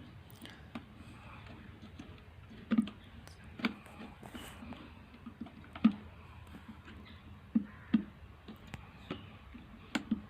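Irregular light clicks and knocks of small plastic and metal parts of an electric kettle being handled and fitted during reassembly, with about half a dozen sharper taps among them.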